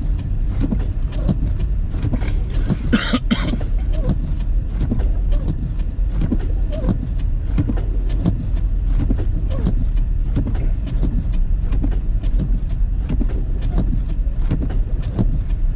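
Car cabin noise while driving: a steady low road-and-engine rumble with many irregular light clicks. A short hissy burst comes about three seconds in.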